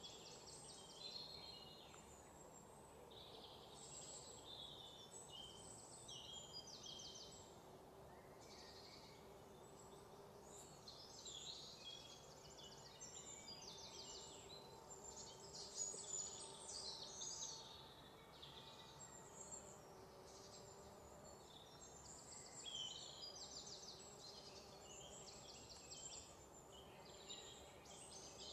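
Faint birdsong: many high chirps and rapid trills come and go throughout, over a low steady background hum.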